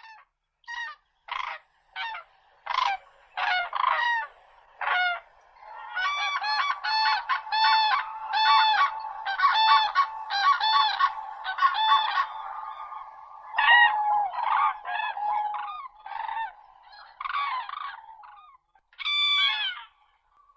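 Common cranes trumpeting: loud rolling calls, first one at a time, then several birds calling over one another in dense stretches.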